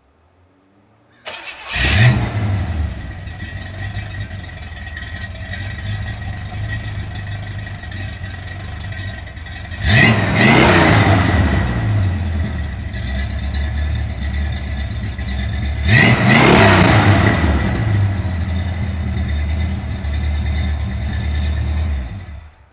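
Buick 455 big-block V8 sounding through 2½-inch dual exhaust with an H-pipe and Flowmaster Super 40 mufflers: it starts about a second in with a quick rev, then idles. It is blipped twice, each rev climbing and falling back to idle. It shuts off near the end.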